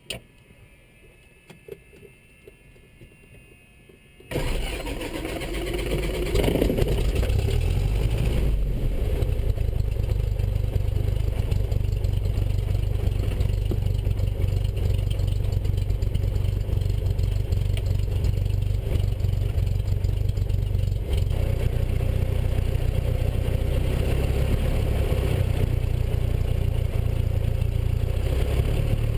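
Cessna 172SP's four-cylinder Lycoming engine starting: a sudden onset about four seconds in, rising briefly as it catches, then settling into steady running at idle.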